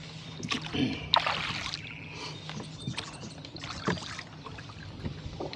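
Rowboat under way on choppy water: oar strokes and water splashing and slapping against the hull, with irregular sharp splashes and knocks, the loudest about a second in.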